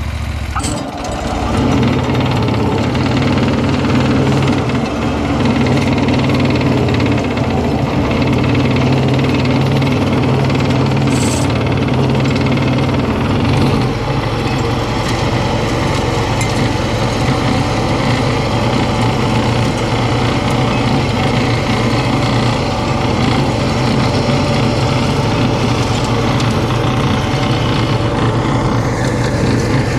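Tractor engine running steadily under load, driving a flail mower, with a rattling, hammering edge to the sound. A deeper low rumble comes in about halfway through.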